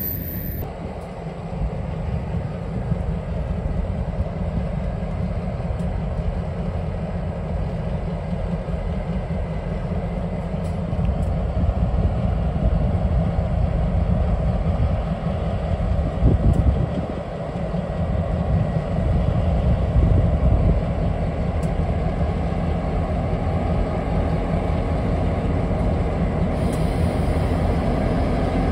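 Kansas City Southern F-unit diesel locomotives passing close by: a continuous low engine sound with steel wheels running on the rails.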